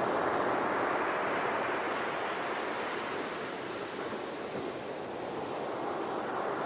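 Sea surf: waves washing onto the shore in a continuous rush that eases a little midway and builds again near the end.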